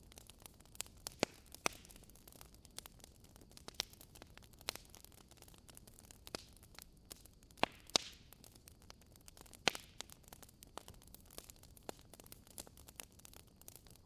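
Burning logs in a fireplace crackling: irregular sharp pops and snaps, a handful louder than the rest, over a faint steady hiss.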